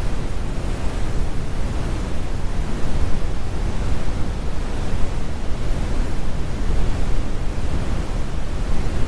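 Computer-generated brown noise: a steady, even rumble, strongest in the bass and with the highs rolled off.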